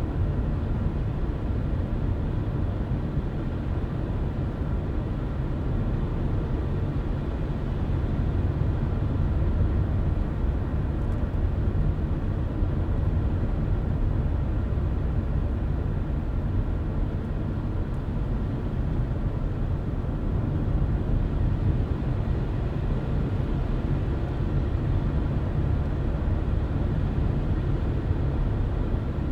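Car driving at a steady speed: an even, low rumble of tyre and engine noise that holds without change.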